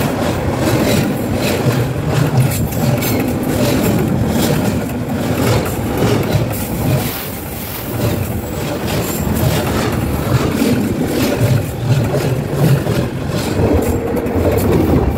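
A real train passing directly over the camera on the track: a loud, steady rumble with rapid clattering of steel wheels over the rails.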